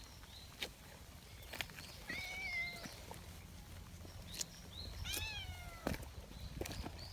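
Orange-and-white cat meowing twice, about three seconds apart, amid scattered sharp ticks.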